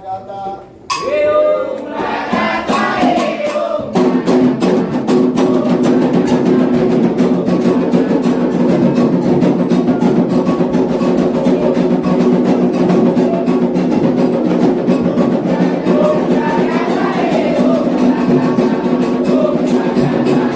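Candomblé sacred song for Ogum: a single voice sings a line alone, then about four seconds in a chorus of voices answers together with drums and percussion in a steady, driving rhythm.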